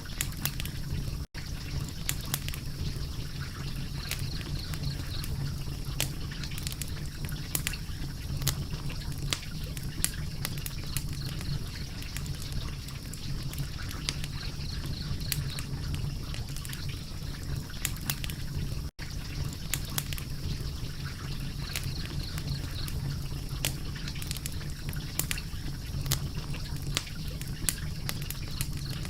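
Wood fire crackling, with frequent sharp pops and snaps at irregular intervals over a steady low rumble. The sound cuts out for an instant twice.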